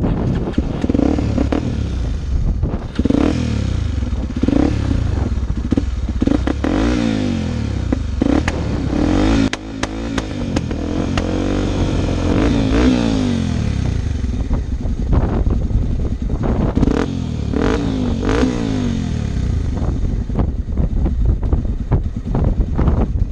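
Off-road motorcycle engine riding hard, its note rising and falling again and again as it revs and shifts, with clattering knocks from the bike over rough ground.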